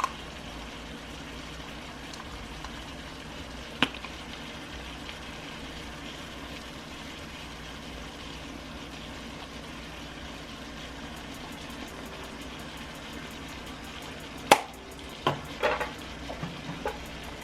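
Chicken thighs sizzling steadily in a pan, with a sharp click about four seconds in, a louder click a little before the end and a few softer knocks after it.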